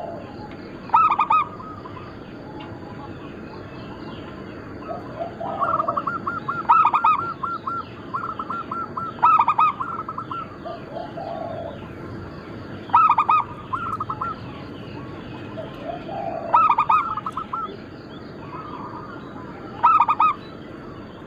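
Zebra doves (perkutut) cooing: rapid runs of short, evenly spaced coo notes in repeated phrases every few seconds, with fainter chirping of small birds in the background.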